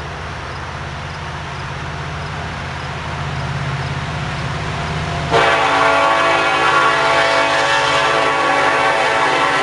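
Diesel locomotive running as it draws nearer, growing slowly louder, then about five seconds in its air horn sounds one long, loud blast that is still sounding at the end.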